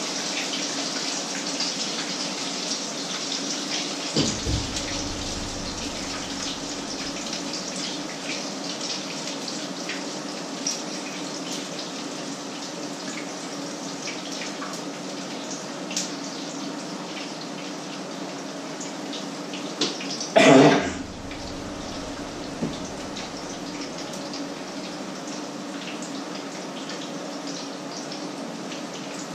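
Patties frying in oil in two pans on an electric stove: a steady sizzle with fine crackles. A low knock about four seconds in and a louder short clatter about two-thirds of the way through.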